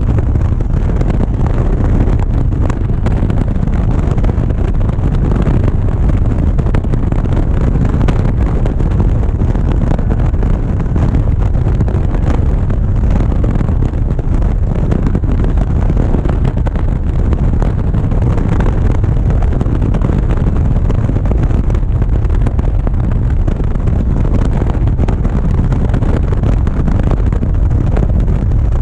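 Steady low rumble of wind buffeting a GoPro's microphone on a moving motorcycle, with the motorcycle's running and road noise mixed in.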